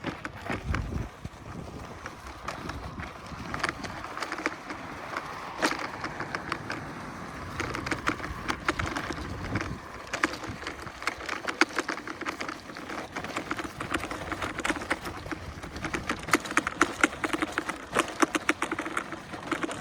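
InMotion E20 electric unicycle rolling along a dirt single-track, with a dense run of sharp clicks and crackles over a steady hiss: dry buckwheat stalks and brush scraping past the wheel and rider, and the tyre on the dirt. The crackling gets thicker in the second half.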